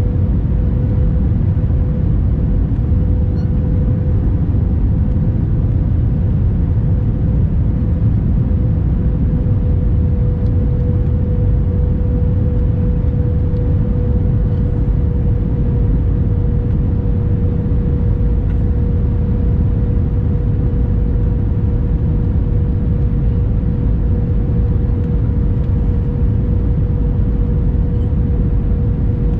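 Steady cabin noise inside an Airbus A321-200 airliner: a deep rumble of engines and rushing air with a constant mid-pitched hum over it.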